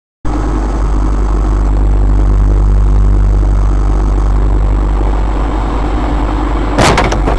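Vehicle engine and road rumble picked up by a dash camera: loud, low and steady, cutting in suddenly at the start. A sudden loud thump comes near the end.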